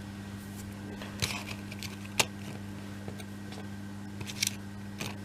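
A few short clicks and taps of laser-cut wooden kit pieces being handled and set down on a table, over a steady low hum.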